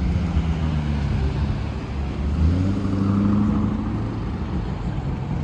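A car engine running in street traffic, its pitch rising about two and a half seconds in and holding for a second or so before easing off.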